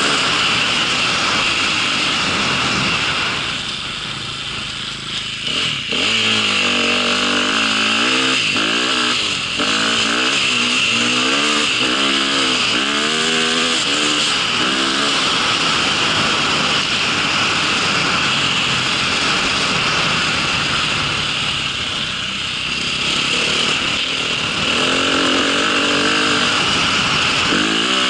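Vehicle engine running under way, its pitch rising and falling repeatedly as the throttle is opened and eased, over a steady high whine and rushing noise.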